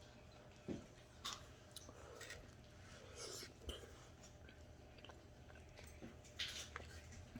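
Quiet chewing and mouth sounds of a person eating, with a few soft clicks and smacks spaced out over several seconds, over a faint low hum.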